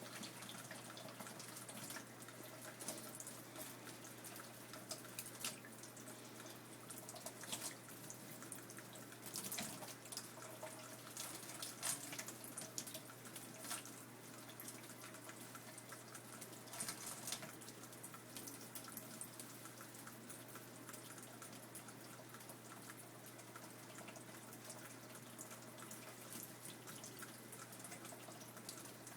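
A small bird bathing in shallow water: short bursts of splashing and flicking drips every few seconds, fading to a faint wet patter over the last third.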